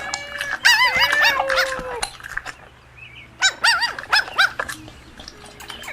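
Puppies yapping and yelping in play. A cluster of high yips about a second in rides over a longer whine, then four or five short yaps follow in quick succession.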